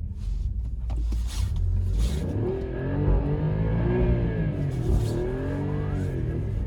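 Alfa Romeo Giulia Quadrifoglio's twin-turbo V6 revving up and down several times in quick succession, the pitch rising and falling in repeated arches. This is typical of a driver working the throttle as the car struggles for grip on icy snow.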